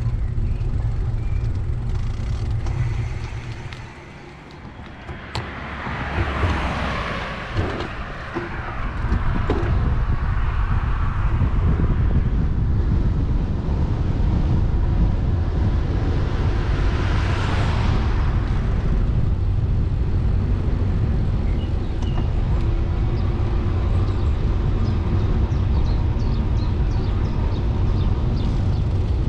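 Street traffic heard from a moving bicycle: a steady low rumble throughout, with a car passing about six seconds in and another about seventeen seconds in, each swelling and fading away.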